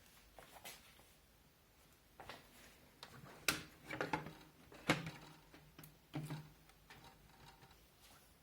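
Scattered clicks and knocks of hands handling the plastic and metal parts of a Zalman Z11 Neo computer case while fitting a fan, about half a dozen separate taps, the loudest near the middle.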